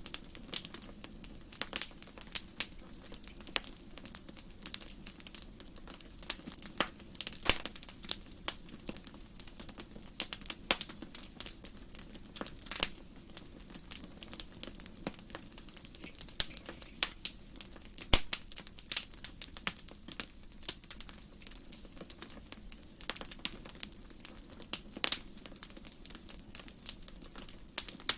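Wood fire burning in a fireplace: irregular crackling and sharp pops from the burning logs, several a second with louder snaps scattered through, over a faint steady hiss.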